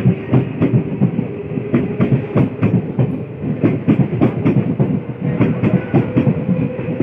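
EMU electric local train running, its wheels clattering over rail joints in a dense, irregular clatter over a steady rumble. A faint whine rises slightly in pitch toward the end.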